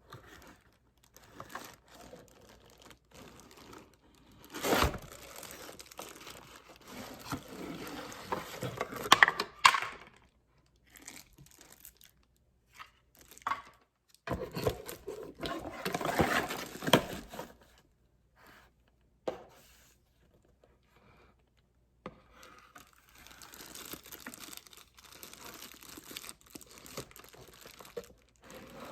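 Packaging being handled and torn open: crinkling, rustling and tearing of wrapping in three long stretches, with small taps and clicks in the pauses between.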